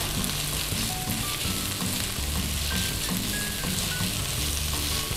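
Diced smoked beef with onion and garlic sizzling steadily as it fries in hot oil in a pan, stirred with a wooden spatula.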